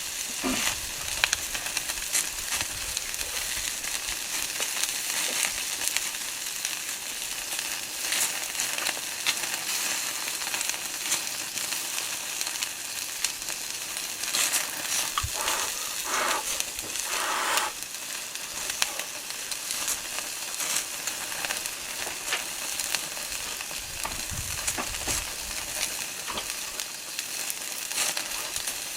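Chicken skewers sizzling over charcoal on a fire pit: a steady high hiss of fat cooking, dotted with small crackles and pops.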